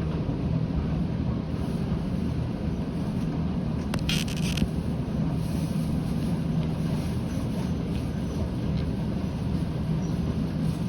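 Toyama Chiho Railway train running, heard inside the carriage: a steady low rumble of the running gear. A brief hiss comes about four seconds in.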